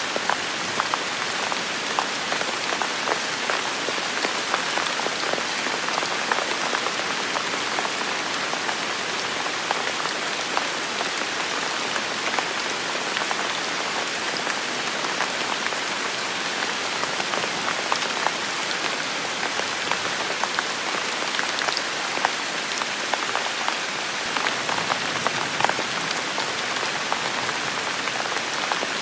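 Heavy rain falling steadily, a dense even hiss with many individual drops pattering and ticking close by.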